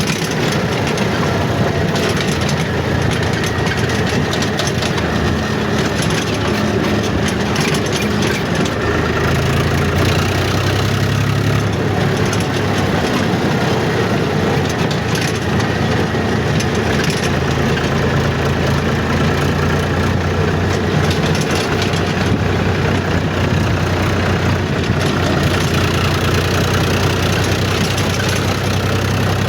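Tractor engine running steadily and close by, its low engine note growing stronger about nine seconds in.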